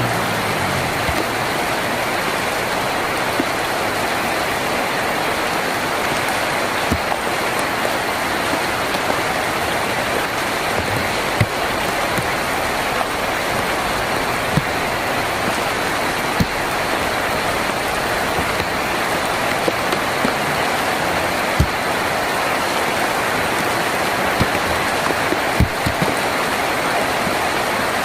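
Rain falling steadily on a tin roof: an even hiss with single louder drops striking now and then.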